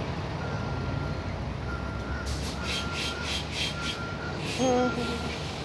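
Crows cawing in a quick run of about seven harsh calls, over the steady low rumble of buses and traffic. A faint on-and-off beeping tone sits underneath, and a short voiced 'mm-hmm' comes near the end.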